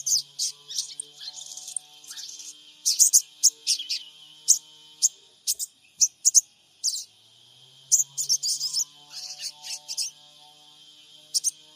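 Sogon trotol birds giving rapid series of short, sharp, high chirps in clusters, with brief gaps between bursts: a recording used as a lure to set other sogon birds calling. A faint low steady hum runs under the chirps at the start and again from about two-thirds of the way through.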